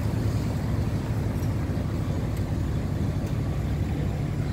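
A motor vehicle engine running steadily, a continuous low hum.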